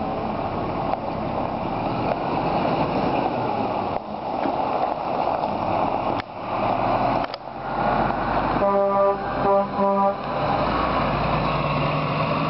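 Scania R truck running with a steady rushing noise. About nine seconds in, a horn sounds in two or three short toots.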